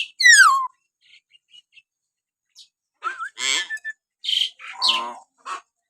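Hill myna calling: a loud falling whistle just after the start, then a pause of about two seconds, then from about three seconds in a quick run of short whistles and harsher, throaty calls.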